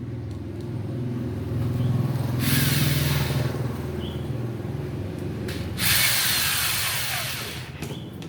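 A small electric motor running with a steady low hum. Two bursts of hiss cut across it: a short one a couple of seconds in and a louder one about six seconds in, with a falling whine as it fades.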